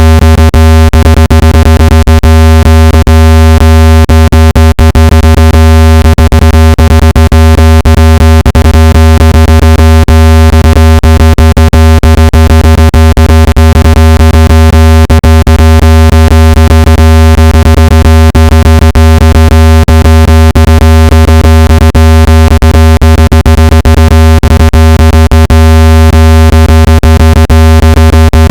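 Steady low-pitched synthetic buzz tone, played at full volume and rich in overtones, with frequent clicks running through it. It is a speaker-cleaning tone meant to shake dust and moisture out of a phone speaker.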